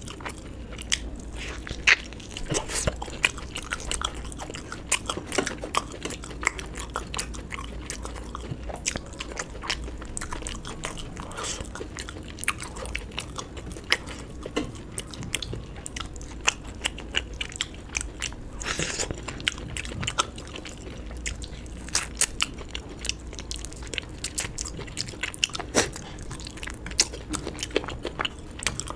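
A person chewing and biting food close to the microphone, with frequent short crunchy clicks at irregular intervals.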